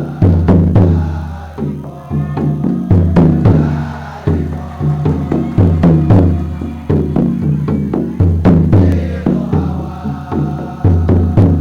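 Choir performance music carried by drums and other percussion striking in a steady, driving rhythm, with some pitched voices or instruments above.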